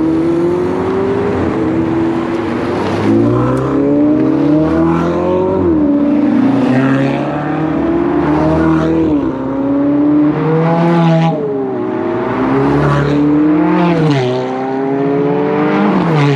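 Several Ferrari sports cars accelerating away one after another, loud. Their engine notes climb in pitch and drop back at each upshift, about half a dozen times, with one car's note taking over from the next.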